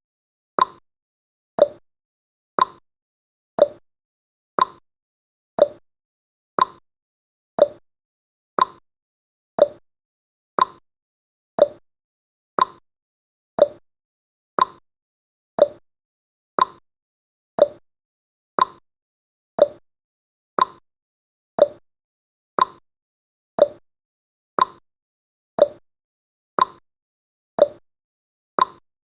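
Clock-style ticking sound effect of a countdown timer: one sharp tick each second, alternating higher and lower in pitch like a tick-tock, each tick dying away quickly.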